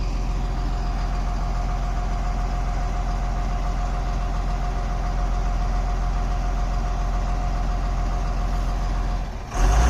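Truck engine running with a steady, even drone. Near the end it dips briefly, then surges louder in a short low burst.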